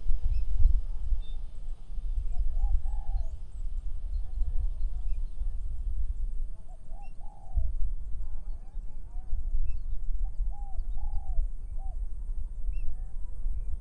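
A dove cooing three times, about four seconds apart, with small birds chirping faintly, over a loud, gusty low rumble of wind on the microphone.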